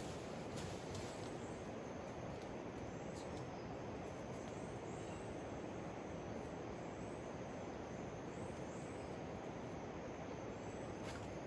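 Steady rainforest ambience: an even rushing noise with insects chirping high above it and a few faint clicks.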